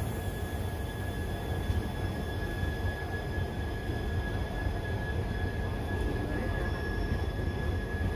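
LHB passenger coaches of an Indian Railways express rolling slowly past along the platform. The wheels on the rails make a steady low rumble, with a thin, constant high whine over it.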